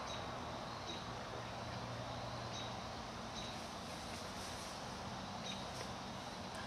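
Short, high bird chirps, one every second or two, over a steady background hiss with a low hum.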